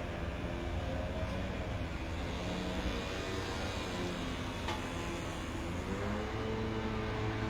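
Steady low engine drone of vehicles or machinery, with tones that slowly drift in pitch.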